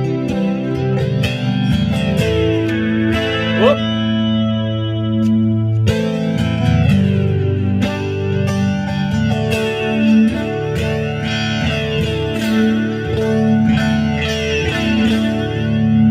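Fender Stratocaster electric guitar played through an amp on a clean setting with a light chorus shimmer: ringing, sustained chords. A quick upward slide comes about three and a half seconds in, and a new chord is struck about six seconds in.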